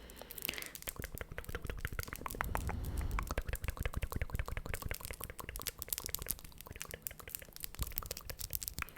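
Rapid, dense crinkling and crackling close to the microphone, an ASMR trigger sound, with a low rumble swelling about three seconds in.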